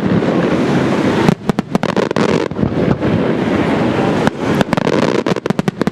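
Fireworks display: a continuous crackling rumble with rapid strings of sharp bangs, one cluster about a second in and another from about four seconds in.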